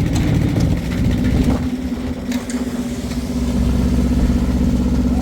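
An engine running at the work site. Its steady note breaks up and dips about two seconds in, then settles back to an even, slightly louder run.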